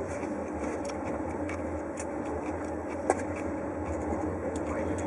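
Steady rumble and low hum of a passenger train running, heard from inside a sleeper compartment, with a few faint clicks and one sharper click about three seconds in.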